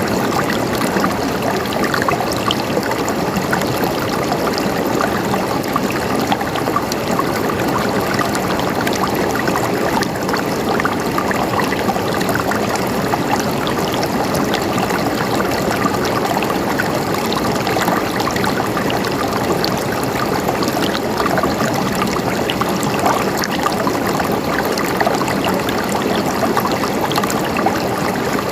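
Running water gurgling and trickling, with a steady babble speckled with many small splashes.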